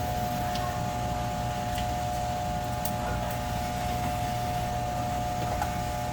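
Steady machine hum with a constant mid-pitched tone, and a few faint clicks over it.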